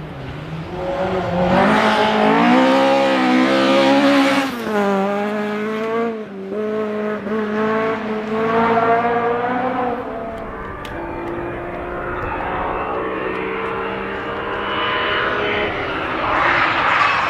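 Rally car engine revving hard, its pitch climbing and dropping sharply several times as the driver shifts or lifts, then running steadier and quieter. A rush of noise rises near the end.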